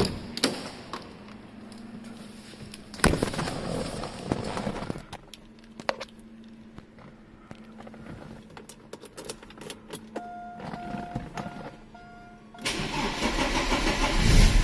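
Clicks and a thump, then a repeated beeping tone for a couple of seconds, then the Porsche 944's inline-four engine cranks and fires on a cold start near the end, running on loudly.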